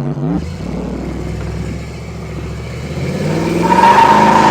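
Engine-swapped 1993 Ford Ranger pickup accelerating on the road, heard from the cab. The engine note rises and drops just after the start, like a gear change, then climbs steadily in pitch and grows louder over the last second and a half, with a high whine joining near the end.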